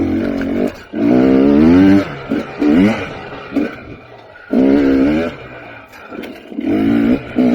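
KTM 300 XC TPI two-stroke dirt bike engine revving in short throttle bursts, its pitch rising and falling and dropping back between bursts, about five or six times.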